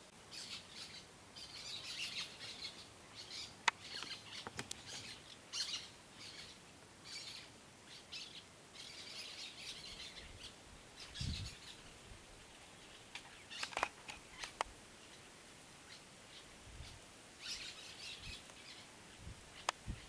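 Wild birds calling in many short, rough, high-pitched chattering bursts, faint throughout. A few sharp clicks, the loudest a little under four seconds in, and a soft low thump about eleven seconds in stand out among the calls.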